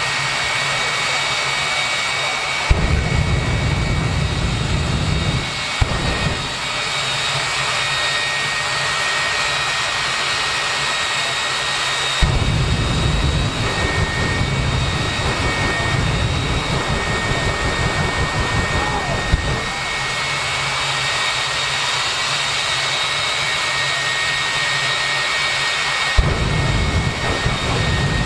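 Jet engine of a jet-powered drag racing car running steadily, with a constant high-pitched turbine whine. Three long bouts of low rumble come and go, starting about three seconds in, about twelve seconds in and near the end.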